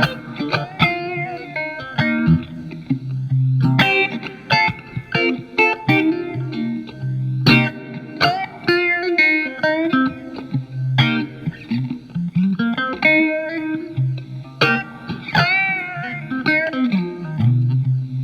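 Telecaster with alnico single-coil pickups played through a Marshall MG15FX amp on its clean channel with the phaser effect on: picked chords and single-note licks, with string bends in the second half.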